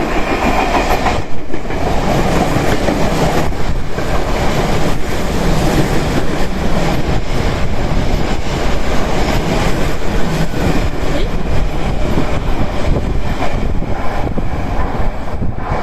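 Tokyo Metro 8000 series electric train passing through a station without stopping, loud and continuous, its wheels clacking again and again over the rail joints.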